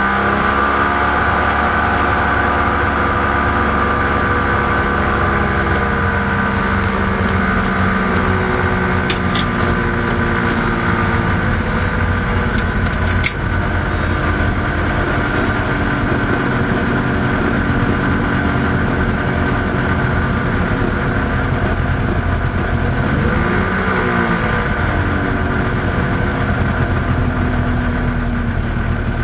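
Suzuki Fronte LC20's two-stroke three-cylinder engine running just after starting. Its revs settle down over the first couple of seconds into a steady idle, with one short rise in revs about three-quarters of the way through. A few faint clicks come near the middle.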